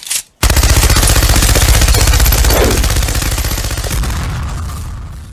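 Machine-gun sound effect: a brief click, then a long burst of rapid automatic fire that slowly fades away near the end.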